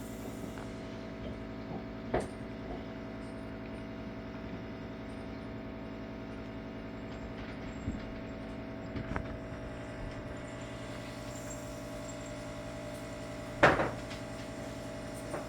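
Steady indoor mechanical hum with several level tones, broken by a few faint clicks and one louder sharp knock about two seconds before the end.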